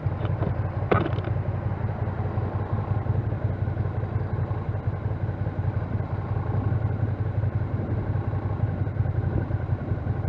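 Motorcycle engine running steadily while riding, a low pulsing rumble with road and wind noise. There is one brief sharp clatter about a second in.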